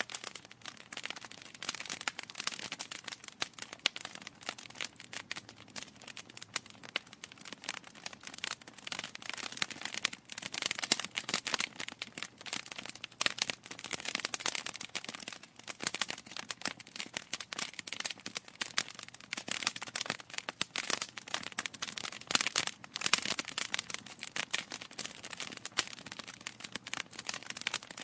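Wood fire burning in a fireplace, crackling steadily with dense, irregular pops and snaps over a soft hiss.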